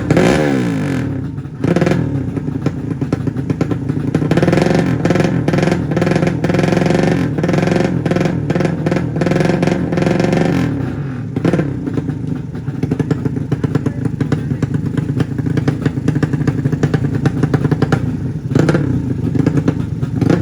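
Open-exhaust engines of drag-racing underbone motorcycles tuned to 200cc, revving hard with a rough crackle. The pitch falls away about a second in, and from about four to ten seconds in several engines rise and fall in pitch together.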